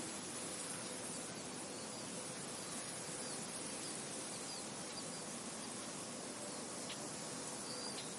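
Wind blowing steadily through a field, an even hiss with no gusts. Faint short high bird chirps come through now and then, a few of them near the end.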